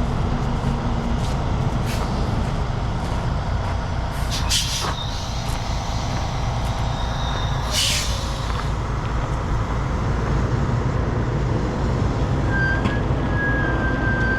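Heavy diesel truck engine running steadily, with two short hisses of released air about four and a half and eight seconds in. A thin, steady high whine comes in near the end.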